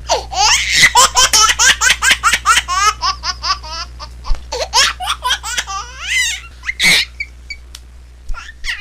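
Baby laughing: a fast run of high-pitched laughs, about five a second, for the first few seconds, slowing to scattered laughs with one louder laugh about seven seconds in.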